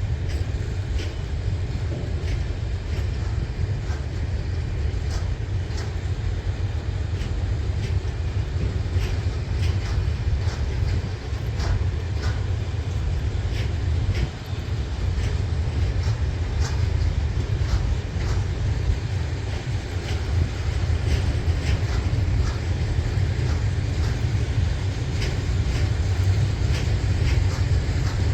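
Train running on rails: a steady low rumble with frequent irregular clicks and clatter from the wheels on the track.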